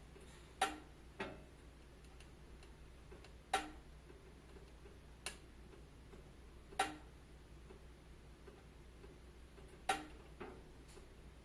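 Wood fire crackling, with sharp pops at irregular intervals of about one to three seconds and fainter ticks between them, over a low steady hiss.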